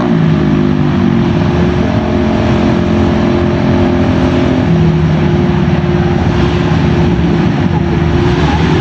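Honda Ruckus scooter's 49 cc four-stroke single-cylinder engine running hard on a dyno under load, its note holding a fairly steady pitch.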